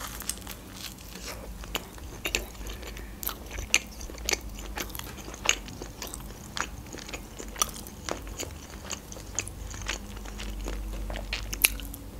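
A person eating close to the microphone: chewing and biting pizza, then a forkful of salad, with irregular crunches and small clicks several times a second.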